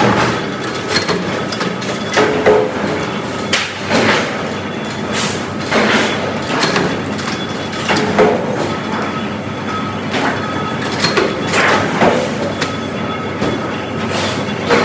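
Factory-floor machinery running steadily, with irregular metallic knocks and clanks every second or two.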